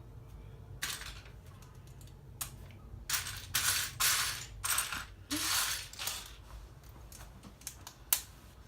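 Loose plastic LEGO pieces being sifted and handled, clattering and rustling in bursts in the middle, with a single sharp click near the end.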